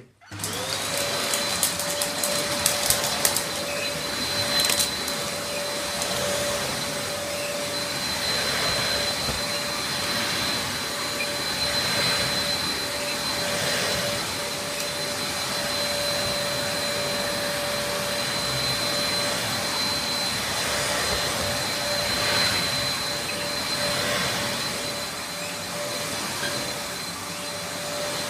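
Dyson DC03 upright vacuum cleaner switched on, its motor whine rising quickly to a steady pitch, then running as it is pushed back and forth over carpet, the sound swelling every couple of seconds. A few sharp clicks and rattles in the first few seconds.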